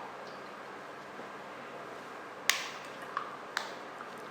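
Objects handled on a tabletop: one sharp click about two and a half seconds in, then two lighter taps, over quiet room tone.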